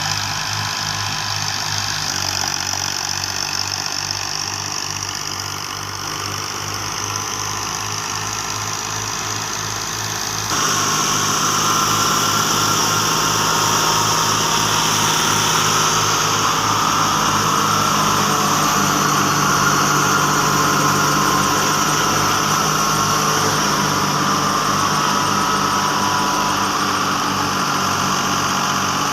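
Tractor engine running steadily as it drives a wheat thresher. The sound jumps louder about ten seconds in and then holds.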